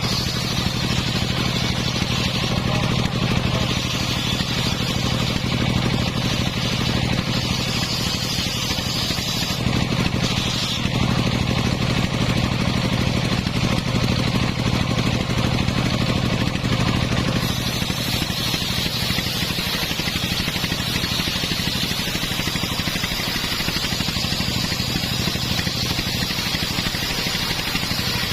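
The engine driving a homemade circular sawmill running steadily at constant speed.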